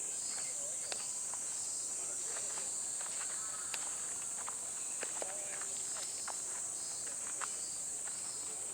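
Steady high-pitched drone of a chorus of insects, with faint distant voices and a few scattered light clicks and knocks.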